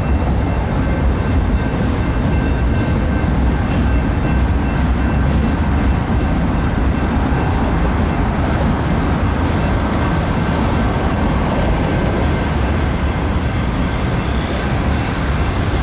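Freight train's boxcars and tank cars rolling past: a loud, steady rumble of steel wheels on rail, with a faint steady high ringing over it.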